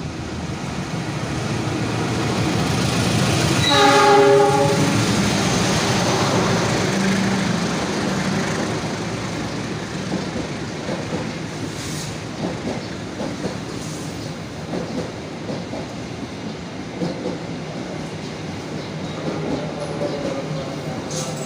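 CC 206 diesel-electric locomotive approaching and passing at speed, sounding its horn in one short blast about four seconds in. Its passenger carriages then roll by with wheels clicking over the rail joints.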